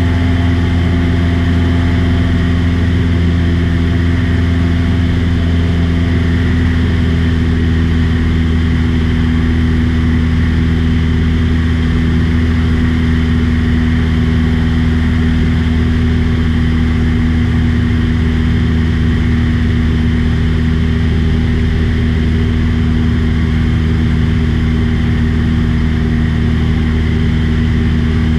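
Aircraft engine and propeller running at a steady cruise, a loud unchanging drone.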